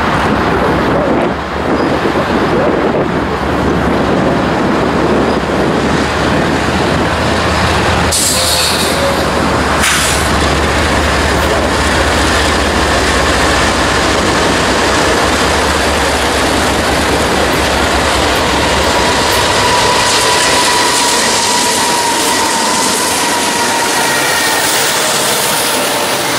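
Norfolk Southern freight train passing close by. The diesel locomotives go by with a low engine drone, then the freight cars rumble and clatter over the rails. A thin wheel squeal comes in about twenty seconds in.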